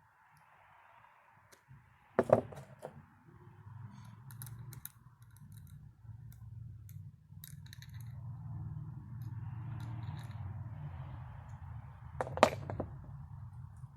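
Small metal distributor parts clicking and clinking as they are handled, with two sharp knocks about two seconds in and near the end, over a steady low hum.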